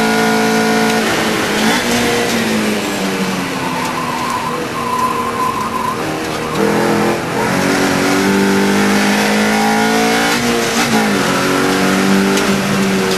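Mini Challenge Cooper race car's 1.6-litre engine running hard at high revs, heard from inside the car. The revs drop sharply about a second in and again twice later, as if braking and changing down, and each time climb back up under acceleration.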